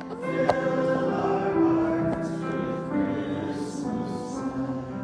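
Church choir singing sustained chords, easing off slightly in the second half.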